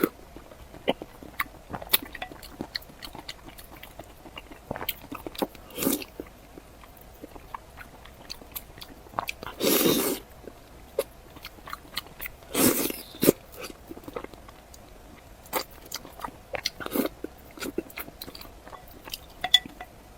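A person eating close to the microphone: chewing and wet smacking mouth clicks, with two louder drawn-out sounds about ten and thirteen seconds in.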